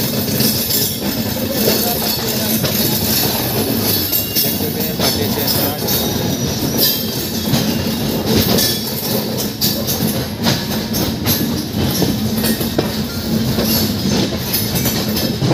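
Express train's passenger coaches rolling past at a station, a steady rumble of steel wheels on rail with irregular sharp clacks as the wheels cross rail joints.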